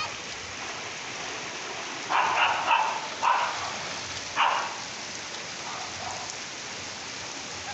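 Heavy rain falling steadily. A few short, louder sounds stand out over it between about two and five seconds in.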